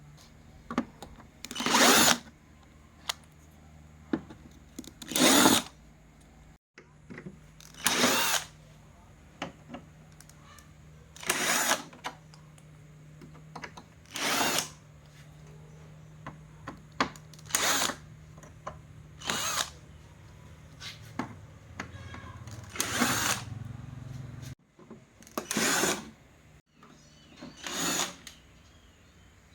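Electric screwdriver run in short bursts, about every three seconds, as screws are driven out of the TV's casing.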